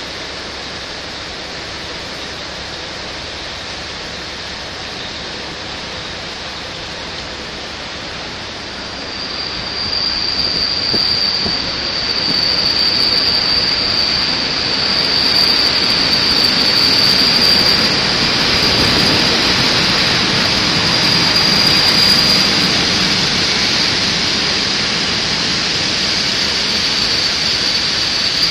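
Locomotive-hauled passenger train pulling into a station platform, its running noise growing louder as it passes close. About a third of the way in a steady high-pitched wheel squeal sets in and holds as the train slows.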